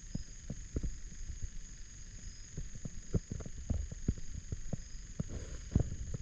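Steady high-pitched insect chorus, with irregular low thumps and rumbles against the microphone.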